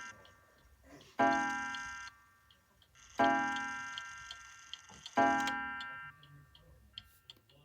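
Waterbury Beehive 8-day mantel clock striking the hour on its gong: three ringing strokes about two seconds apart, each fading out, following the tail of an earlier stroke. The pendulum movement ticks steadily between and after the strokes.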